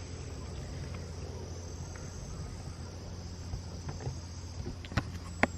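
Steady high-pitched chorus of crickets, with two sharp clicks near the end.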